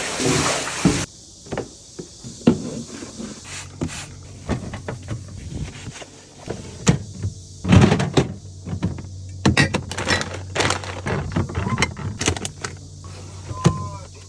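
Refrigerator drawers, shelves and containers being handled during cleaning: an irregular run of knocks and clacks, with a short hiss in the first second over a low steady hum.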